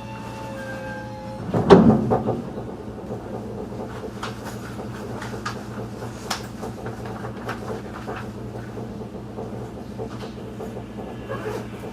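A 211-series train's sliding passenger door shuts with one loud thump about two seconds in. The steady low hum of the standing electric train runs throughout, with scattered small clicks and knocks.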